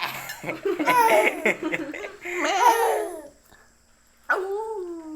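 Laughter and babbling voices of a young child and adults, followed about four seconds in by a single drawn-out call that falls in pitch.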